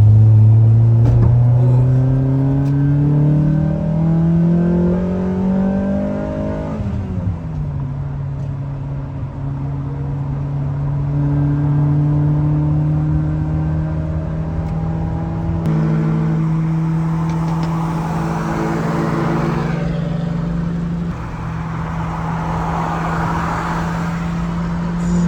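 Honda Prelude's four-cylinder engine pulling up through the revs for about seven seconds, then dropping in pitch at a gear change and running at a steady speed. A rushing hiss swells twice in the second half.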